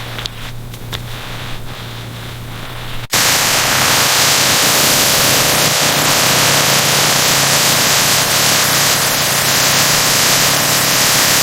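A loud, steady rushing hiss that cuts in suddenly about three seconds in. Before it there is a quieter low hum with scattered clicks.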